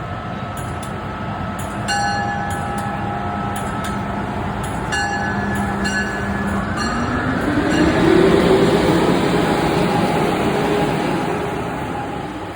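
MARC HHP-8 electric locomotive with its bell ringing repeatedly, then a rising whine from the train's traction motors as it speeds up. The whine is loudest about two-thirds of the way in and then fades as the train moves off.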